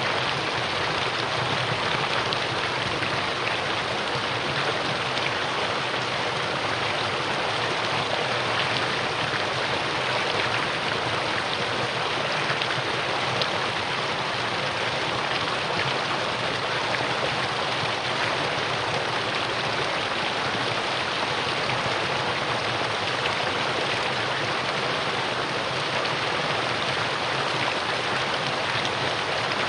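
Mountain valley stream flowing, a steady, even rush of water that holds its level throughout.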